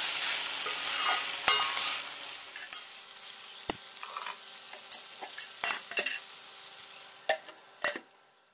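Chopped okra frying and sizzling in a metal kadai while it is stirred with a steel spatula. The sizzle fades after the first couple of seconds, leaving a series of sharp metal clinks and knocks of the spatula against the pan.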